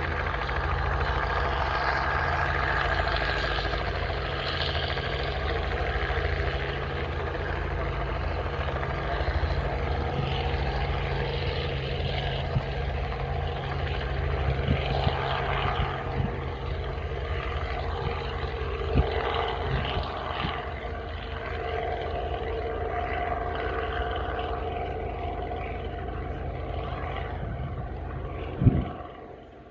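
Aircraft engines running steadily with a constant low hum, while their tone drifts slowly. A few short knocks come through, the sharpest about a second before the end.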